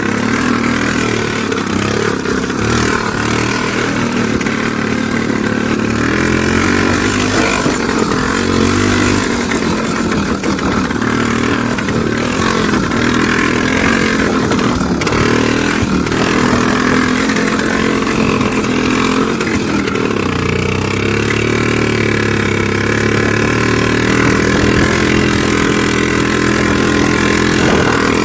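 IZh Planeta 3's single-cylinder two-stroke engine running while the motorcycle is ridden, its revs rising and falling.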